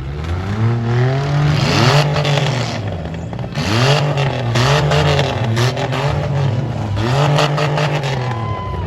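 Six-cylinder demolition derby car engines revving hard, their pitch rising and falling over and over, with a cluster of sharp knocks about halfway through.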